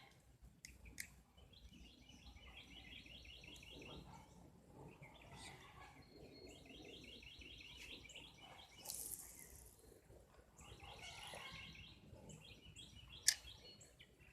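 A songbird singing faintly, repeating a fast trill of rapid notes four or five times. A short hiss comes about nine seconds in, and a single sharp click near the end is the loudest sound.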